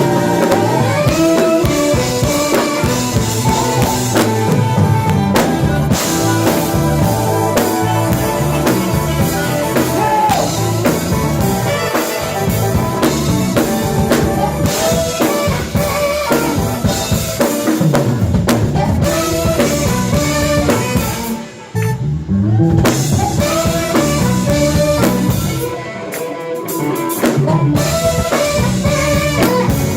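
Live jazz band playing, with the drum kit prominent (snare, rimshots and bass drum) under bass and melodic instruments. The band drops away briefly about two-thirds through.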